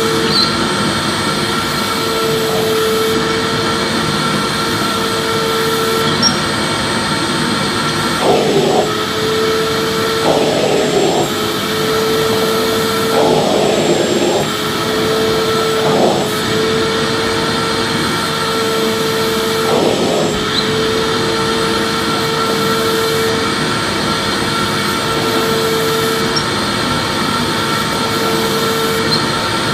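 Vacuum cleaner running steadily with its motor whine, a steady rushing noise with a few brief shifts in the sound around the middle.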